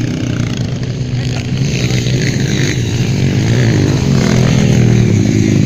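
Motocross bike engines running loud and revving, their pitch rising and falling with the throttle and getting somewhat louder toward the end.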